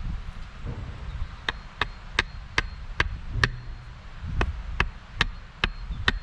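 A run of sharp, evenly paced chops into wood, about two and a half a second: six strokes, a brief pause, then five more.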